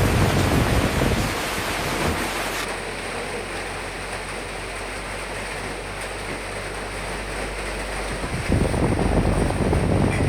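Steady hiss of rain with wind. The low wind rumble eases about a second in and the upper hiss thins soon after, then the rumble returns near the end.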